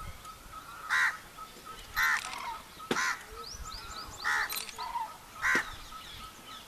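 Loud, harsh bird calls, each short and repeated about once a second. Faint high chirps of smaller birds sound behind them.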